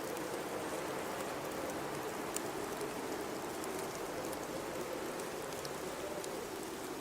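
Blizzard ambience: a steady rush of high wind carrying a low tone that wavers slightly, with faint scattered ticks throughout.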